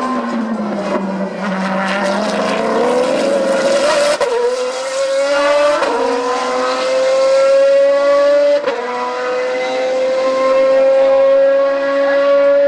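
Maserati MC12 GT1 Corsa's V12 racing engine accelerating hard on track. After a low note early on, it pulls up through the gears, with quick upshifts breaking the rising pitch about four, six and nine seconds in.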